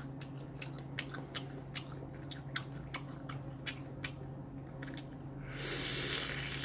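Close-up chewing of lamb shashlik with onion: short wet mouth clicks and smacks, two or three a second, over a steady low hum. A brief rushing noise lasts about a second near the end.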